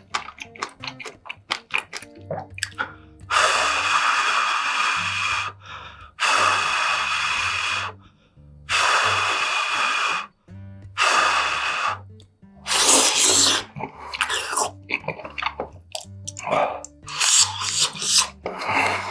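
Close-miked eating sounds: a run of quick small clicks and smacks, then several long noisy stretches of about one to two seconds each with short gaps between them, over soft background music.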